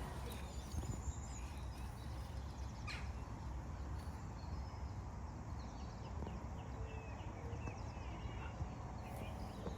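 Open-air ambience: a steady low background rumble with birds chirping faintly now and then, and a single light click about three seconds in.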